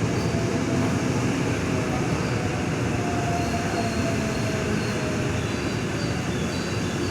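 KRL Commuterline electric train running with a steady rumble of wheels on the rails, with short, faint high-pitched squeals coming more often toward the end.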